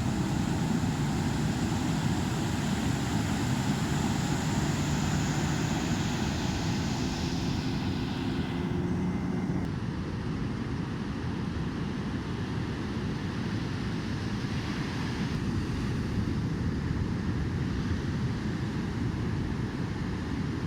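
Fishing boat engine running amid surf and wind, its sound dropping away about nine seconds in, leaving the rush of waves and wind.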